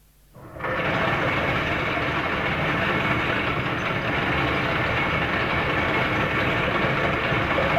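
A steady mechanical rumble and rattle from a sound-effects recording, fading in quickly about half a second in after near silence.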